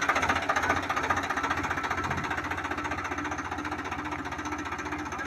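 Swaraj tractor diesel engine running with a fast, even clatter, easing off a little about a second in.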